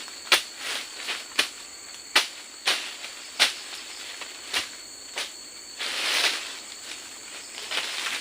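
Forest insects droning as two steady high-pitched tones, one of which stops about six seconds in. Irregular sharp snaps or knocks sound every half second to a second over the drone, and a brief rustling swish comes about six seconds in.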